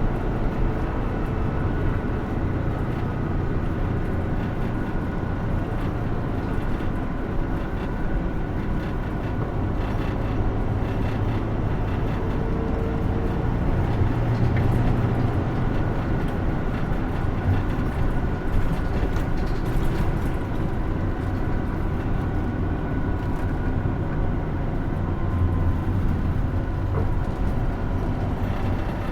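Interior running sound of a 2016 Hino Rainbow II diesel midsize bus on the move: a steady engine drone with road noise, heard from inside the passenger cabin.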